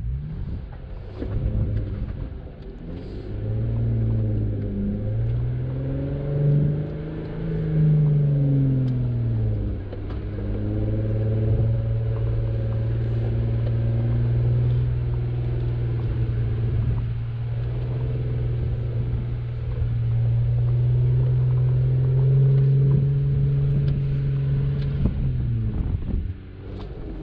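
Jeep Wrangler engine running at low revs on an off-road trail. The engine note climbs and falls about six to nine seconds in, then holds steady, and the revs drop away near the end.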